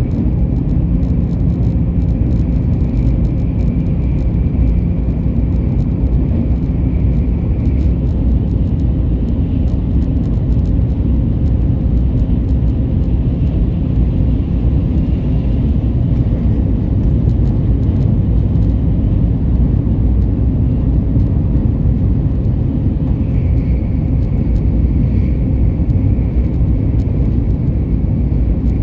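Steady low rumble of a vehicle in motion, with a faint high whine that comes in twice and fades.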